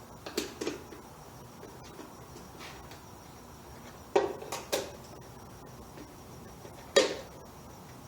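Light metal parts or tools being handled on a bench: five sharp clinks and knocks, two near the start, two about four seconds in, and the loudest one near the end.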